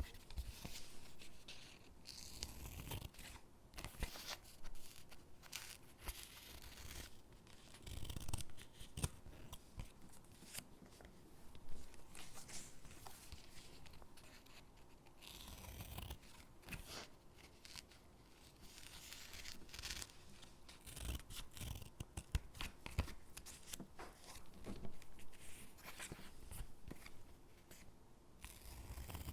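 Stickers peeled from their backing sheet and pressed onto paper gingerbread cutouts: irregular soft paper rustles, peeling swishes and light taps.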